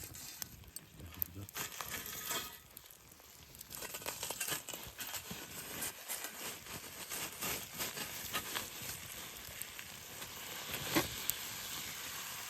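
Food sizzling and crackling over an open wood fire, with scattered small clicks and rustles of handling.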